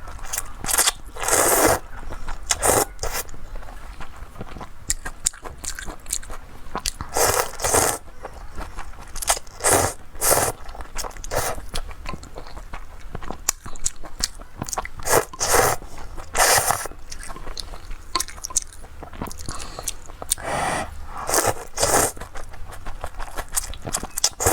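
Crunching and scraping close to the microphone, in irregular strokes roughly every second or two, some sharp and some drawn out: crunchy fried food being bitten and chewed.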